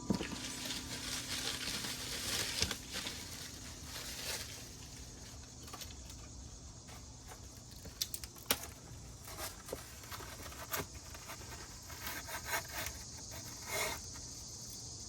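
Scattered light clinks, scrapes and rustling from handling grill parts, as a briquette rack is set into a gas grill. The clicks come irregularly, a few seconds apart, over a steady faint hiss.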